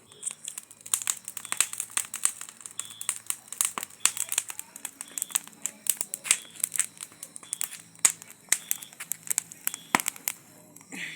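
Wood bonfire crackling and popping with corn cobs roasting in it: a dense, irregular run of sharp snaps.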